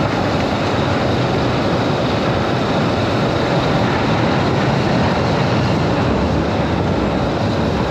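BMW G310GS single-cylinder adventure motorcycle being ridden on a rough off-road lane: engine running and tyre noise, heard as a steady, even rush.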